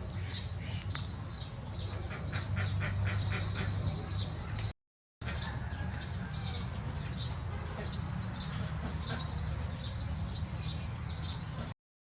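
Baby birds chirping: a rapid, continuous run of short high-pitched chirps over a steady low hum. The sound cuts out completely for about half a second a little before the middle.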